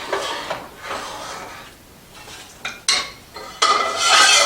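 Pots, pans and metal utensils being handled: a few sharp clinks, then a louder scraping clatter with a ringing tone near the end.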